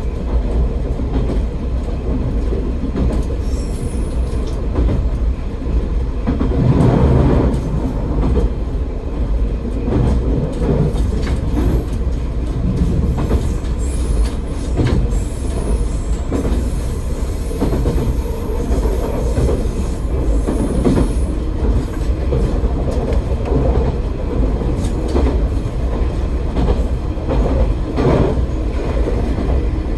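AN-8800 diesel railcar running along the track: a steady low rumble from the engine and wheels, with scattered clicks over the rail joints and a faint high wheel squeal through the middle.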